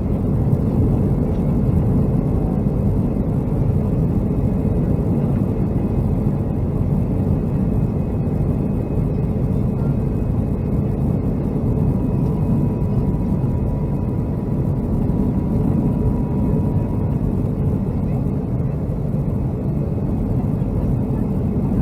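Steady low rumble inside the cabin of a Boeing 757-200 airliner, the engine and airflow noise of the plane in flight or taxiing, with a faint steady whine for a few seconds midway.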